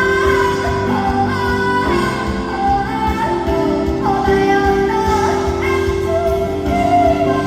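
A female vocalist singing a held, gliding melody over live band accompaniment.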